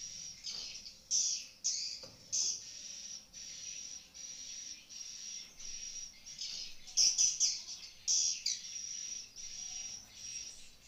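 Swiftlets twittering: a steady run of short, buzzy, high chirps repeating about twice a second, with louder flurries about a second in and again about seven seconds in.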